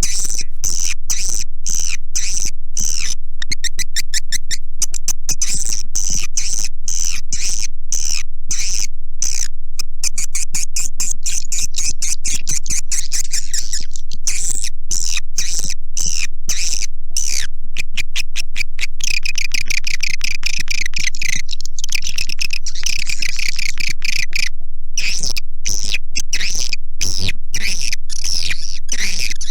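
Recorded calls of edible-nest swiftlets: a dense, unbroken stream of rapid chattering clicks and twitters, played as a lure sound to draw swiftlets into a swiftlet house.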